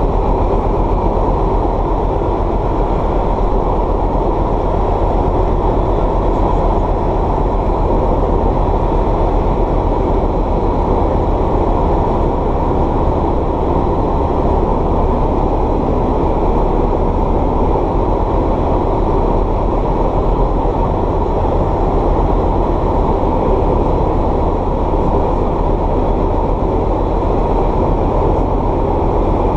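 Light aircraft's piston engine and propeller running steadily, heard inside the cockpit as an even drone.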